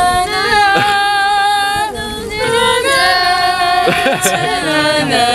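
People singing a slow song in long held notes, with more than one voice moving on separate pitches.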